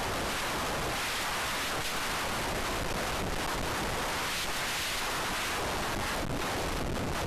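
Steady rushing noise with no tone or motor whine in it, at an even level.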